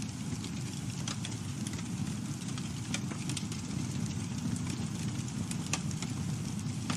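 Campfire burning: a steady low rumble of the flames with scattered sharp crackles and pops from the burning wood, several a few seconds apart.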